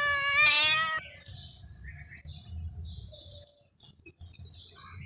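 A long, wavering cat meow that cuts off suddenly about a second in, followed by faint, scattered bird chirps.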